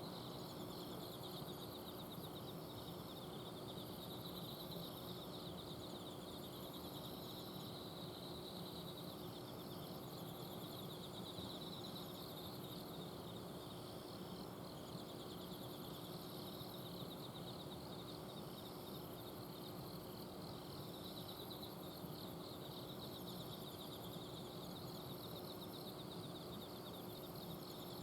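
Autumn insects calling together, rapid pulsed trills in repeating phrases high in pitch, over the steady low hum of an air-conditioner outdoor unit.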